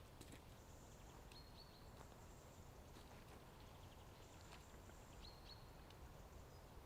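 Near silence: faint outdoor ambience with a low steady rumble and a few brief, faint high chirps, about a second in and again about five seconds in.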